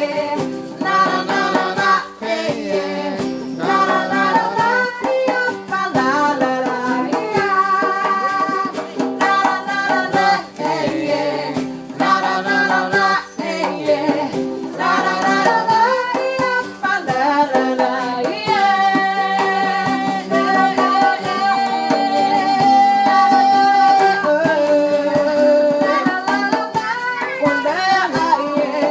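A band playing music: a pitched melody line over percussion hits, with long held notes in the second half.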